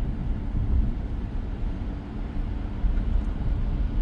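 Steady low tyre and road rumble heard inside the cabin of a moving 2023 Tesla Model X, an electric car with no engine note.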